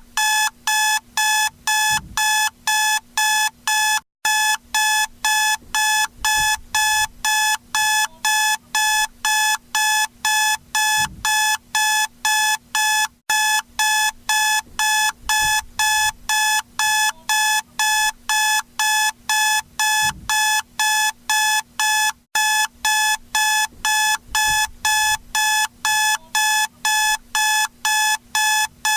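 Electronic alarm clock beeping rapidly and steadily, about three high beeps a second at one pitch, with a short break about every nine seconds. It is a wake-up alarm.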